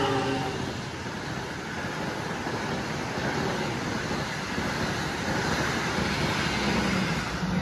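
Argo Cheribon express passenger train passing at speed close by: a steady rush of its carriages going by, with the last of its horn cutting off in the first moment.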